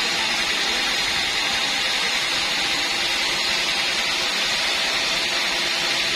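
Sawmill band saw running with a steady, unbroken noise.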